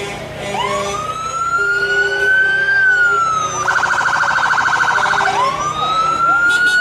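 Emergency vehicle siren sounding loudly. It wails up in pitch and slowly falls, breaks into a rapid warble for about a second and a half midway, then wails up again near the end.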